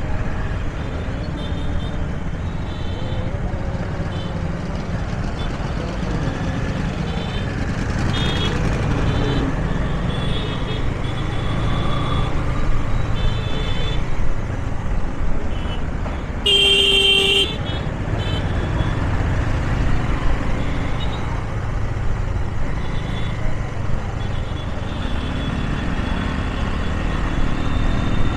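Steady motorcycle and road-traffic rumble while riding in city traffic. Short high horn beeps come from the vehicles around, and a loud horn blast of about a second sounds a little past the middle.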